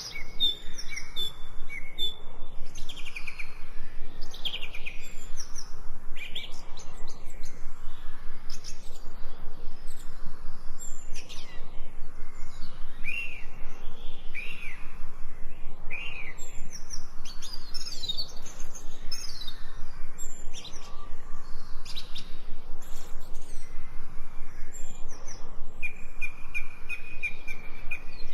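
Songbirds chirping and singing together, a dense, continuous run of short quick whistled notes overlapping one another.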